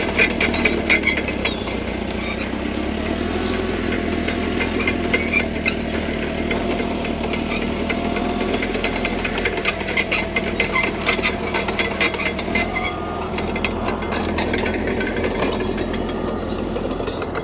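CAT D3K crawler bulldozer's diesel engine running steadily under a rapid clicking clatter of its steel tracks and the gravel being pushed.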